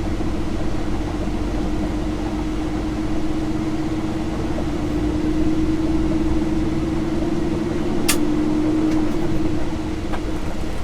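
Semi-truck diesel engine running with a steady drone, heard from inside the cab, with one brief sharp click about eight seconds in.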